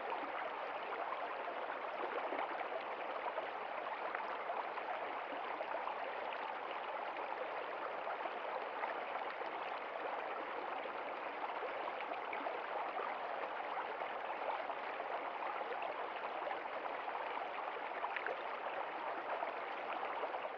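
Running water, a steady trickling and splashing with many small drips, unchanging throughout.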